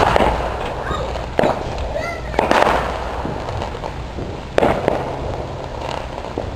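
Fireworks going off outdoors: about five separate bangs several seconds apart, each trailing off in a rolling rumble, with people's voices faintly in between.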